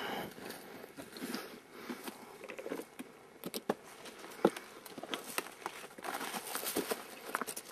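Footsteps crunching and rustling through dry leaves and brush on a steep slope, with irregular crackling and scattered sharp clicks and knocks. The loudest knock comes about halfway through.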